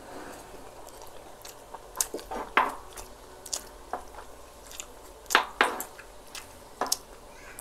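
Close-up mouth sounds of people chewing shawarma rice and siomai: wet smacks and clicks at irregular intervals, the loudest about five and a half seconds in.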